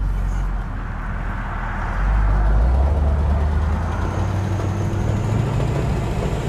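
1973 Cadillac Eldorado's 500 cubic-inch V8 pulling under throttle, getting louder about two seconds in, its note climbing slowly, with wind noise of the open convertible. The engine is down on power, traced afterwards to the choke being sucked shut whenever the throttle was opened.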